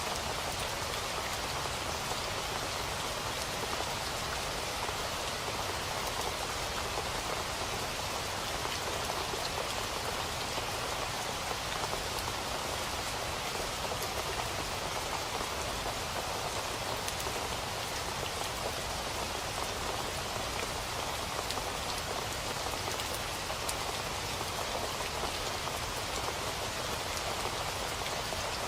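Steady rain falling on a surface, an even hiss with scattered drop ticks that holds without change.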